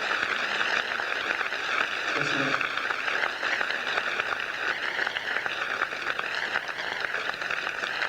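Steady, dense crackling noise with no music, with a brief low sound about two seconds in.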